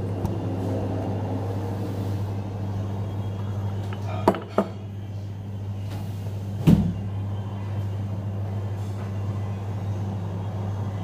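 A steady low hum, with two sharp clacks close together a little past four seconds in and a louder knock just before seven seconds.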